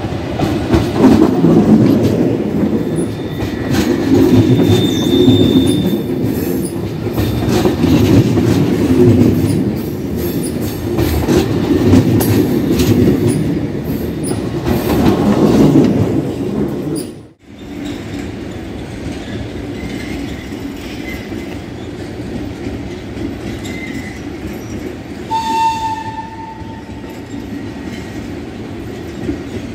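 Double-deck electric commuter train passing close by, its wheels clattering rhythmically over the rails for about seventeen seconds. After a sudden break, a quieter steady rumble of a train approaching from a distance follows, with one short high tone near the end.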